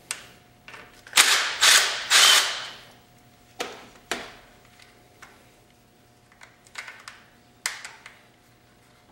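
Hand ratchet clicking in three quick strokes as it turns an 8 mm bolt loose, followed by a few sharp clicks and taps of the tool on the fitting.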